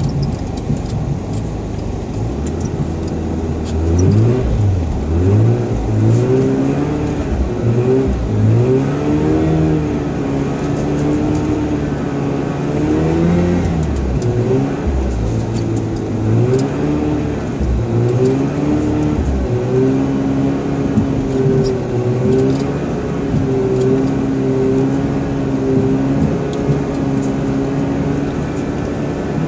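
Naturally aspirated 13B two-rotor rotary engine of a 1991 Mazda RX-7 revving up and down again and again as the car drifts on snow, then holding a steadier pitch over the last third.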